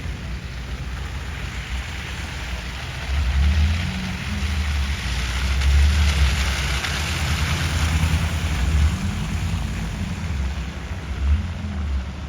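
Wind buffeting the microphone in uneven low gusts, over a steady rushing hiss of traffic on a wet, slushy street that swells for a few seconds mid-way.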